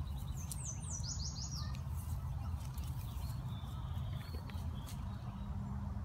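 A songbird call: a quick run of about six short, high, downward-sliding notes about a second in, with a fainter high whistle later. A steady low rumble runs underneath.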